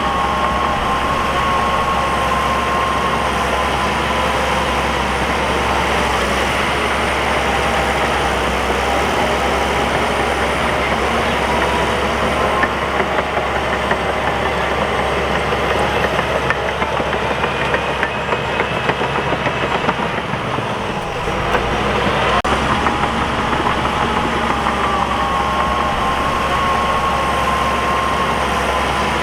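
Crawler bulldozer's diesel engine running steadily under load, its pitch drifting as the load changes. It dips briefly about three-quarters of the way through, then picks up again.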